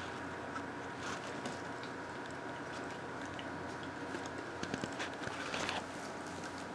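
Faint small clicks, rustles and chewing of four-week-old Miniature Australian Shepherd puppies moving about and mouthing, busier in the second half.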